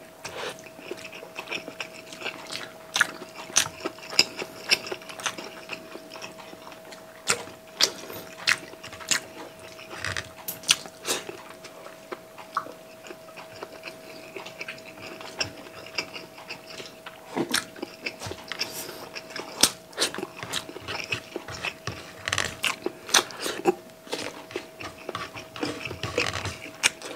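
Close-miked chewing of rice and steamed tilapia eaten by hand, with many short wet clicks throughout. A faint steady hum runs underneath.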